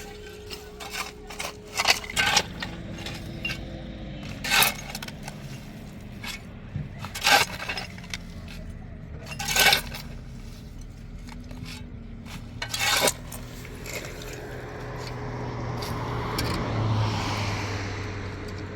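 Sharp, ringing clinks and knocks of hard objects striking, about half a dozen loud ones spread through, over a steady engine hum. Near the end a louder engine sound swells up and fades away.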